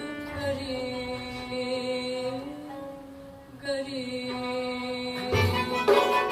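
Turkish classical music ensemble performing a şarkı in makam Hüseynî: a long held melodic line that thins out briefly about three seconds in, then the percussion and full ensemble come in louder a little after five seconds.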